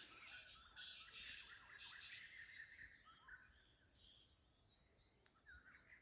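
Faint birdsong: many small birds chirping and trilling, dying away to near silence midway and starting up again near the end.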